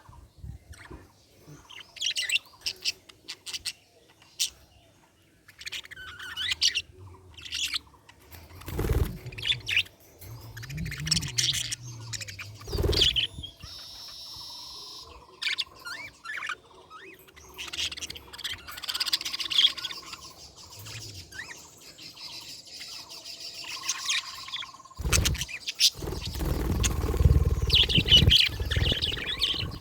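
Budgerigars chirping and warbling in irregular bursts of short, high calls with a few brief whistles, mixed with occasional low thumps.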